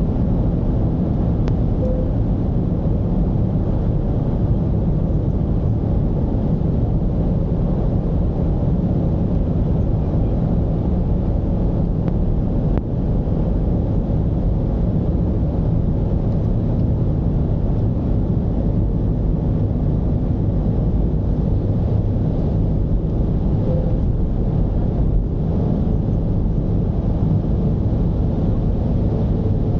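Mercedes-Benz V220 diesel van driving at a steady pace: a constant low drone of the diesel engine mixed with road rumble, with no noticeable change in pitch or level.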